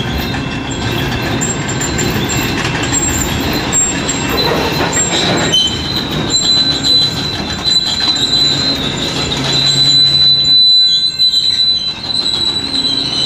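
Train of loaded flatcars rolling past close by, with a steady running rumble and clatter of the cars. Steel wheels squeal with a high, steady tone that comes in strongly about four seconds in.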